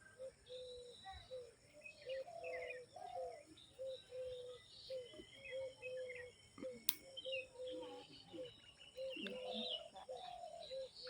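Birds calling in the open: one repeats a short low note about twice a second, over scattered higher chirps and faint insects. One sharp click comes about seven seconds in.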